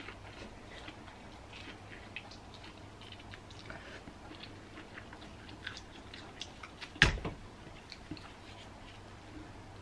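A person biting and chewing seasoned corn on the cob, with many small wet clicks and crunches, and one louder knock about seven seconds in.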